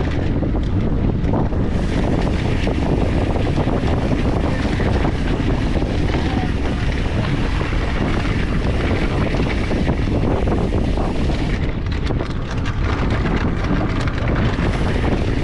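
Wind rushing over the camera microphone on a fast mountain-bike descent, mixed with tyre noise on the dirt trail and many small clicks and rattles from the bike.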